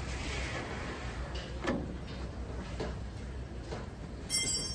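A few scattered knocks and clanks from metal tools and car-body parts being handled. A short, high-pitched metallic ring sounds near the end.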